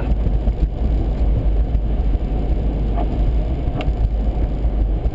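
Steady rumble of road and engine noise inside a moving vehicle's cabin, with two faint clicks about three and four seconds in.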